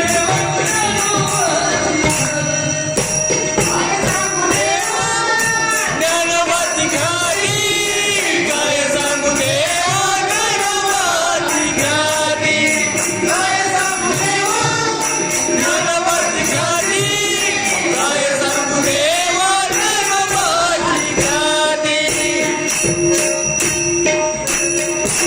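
A voice singing a Marathi devotional abhang in long, ornamented melodic runs over a steady jingling of small hand cymbals.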